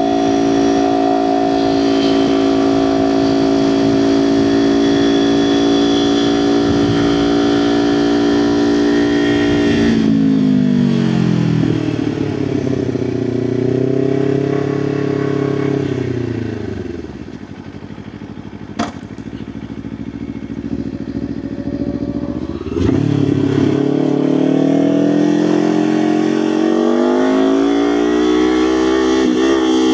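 Kawasaki Ninja 500 parallel-twin engine and exhaust under way. It holds a steady cruise note, then drops in pitch as the bike slows and stays low and quieter for several seconds, with one sharp click in the middle. About two-thirds in the throttle opens again and the note climbs as it accelerates.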